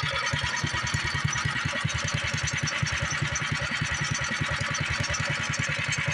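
Small single-cylinder Predator gas engine on a wood chipper idling steadily, with an even low putter.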